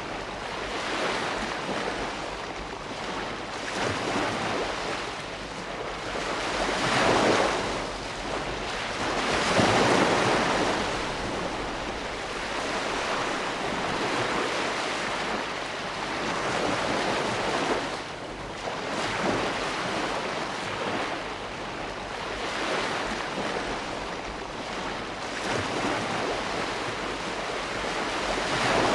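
Ocean waves breaking and washing on a shore in a steady rush of surf, swelling and easing every few seconds, with the two biggest breakers about seven and ten seconds in.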